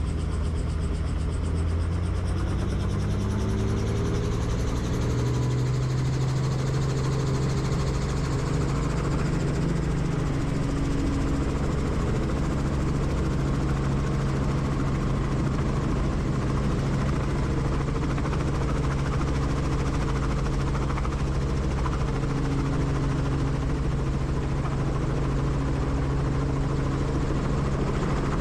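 Helicopter rotor and turbine engine running steadily, with a rising pitch over the first several seconds before it levels off.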